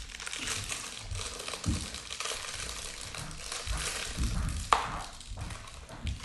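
Close crinkling and rustling of craft materials being handled on a tabletop, with low knocks and one sharp click about five seconds in.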